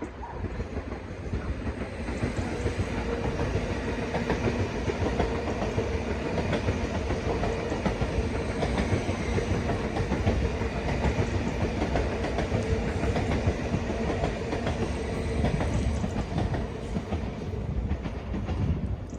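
A train running past on the line, its sound building over the first couple of seconds, staying steady with a faint hum for about fifteen seconds, then easing off near the end.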